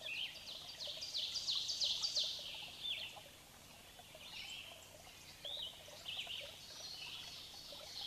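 Birds chirping: a quick run of short, high, falling chirps for the first two seconds or so, then scattered calls over a faint steady hiss.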